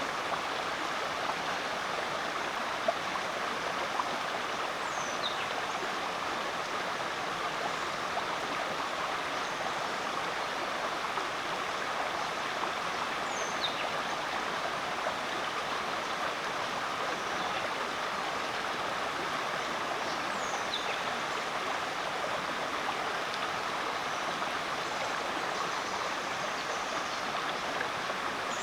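Rainforest creek water rushing steadily over rocks. A short, high, falling call sounds three times over it, about eight seconds apart.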